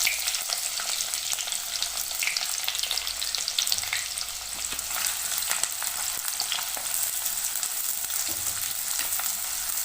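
Chopped onions frying in hot oil in a kadai with whole spices, a steady sizzle full of fine crackles, stirred now and then.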